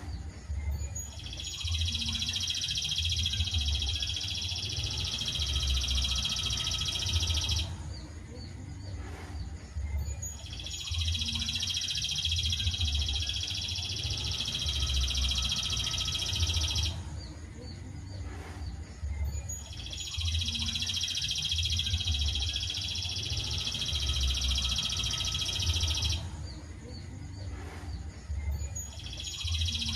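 Recorded songbird masteran track: a long, dense, high trill of about six seconds, repeated three times at even spacing with short pauses between, and starting a fourth time near the end, over a low rumble.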